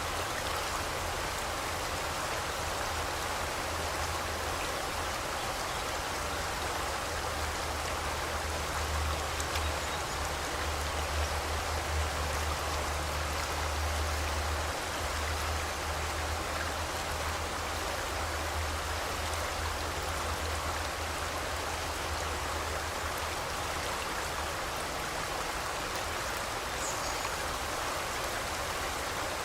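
River water rushing steadily, a constant even hiss with a low rumble underneath that swells in the middle.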